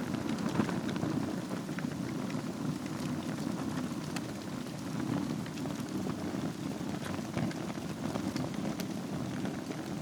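Wood fire burning in a fireplace over a bed of embers: a steady low rush of flame with scattered sharp crackles and pops.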